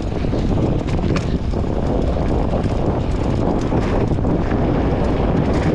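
Wind buffeting the microphone of a mountain biker's action camera, a loud, steady rush heaviest in the low end, with a few sharp clicks about a second in.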